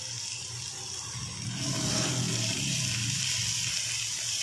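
Chopped green capsicum sizzling as it is sautéed in hot oil with garlic in a nonstick frying pan, with a steady low hum underneath. The sizzle grows a little louder from about a second and a half in.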